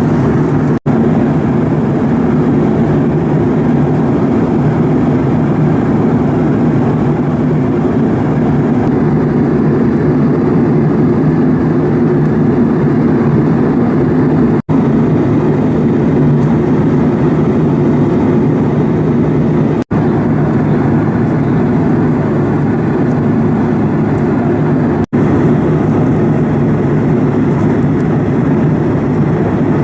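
Steady engine and air roar of an airliner in flight, heard inside the cabin. The sound drops out for an instant four times.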